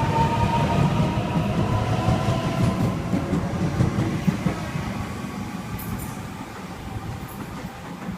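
Millennium (M-set) electric train pulling out of the platform. Its traction motors whine with a slowly rising pitch over the rumble and clatter of the wheels, and the sound fades as the train moves away.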